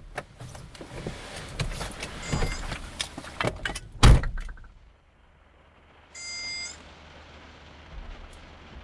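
Clicks and knocks of handling, then a car door shut with a heavy thunk about four seconds in, after which the rain noise drops away. A short electronic beep sounds about two seconds later.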